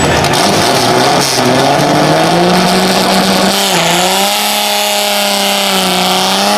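Dodge Polara race car's engine accelerating hard: the engine note climbs for the first couple of seconds, dips briefly about halfway through, then holds high and steady.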